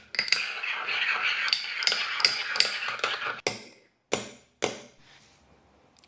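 A metal utensil stirring thick Greek yogurt sauce in a bowl, scraping and clinking against the bowl, then three sharp knocks about half a second apart.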